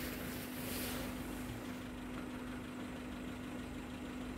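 Safari Gypsy's engine idling with a steady, even hum.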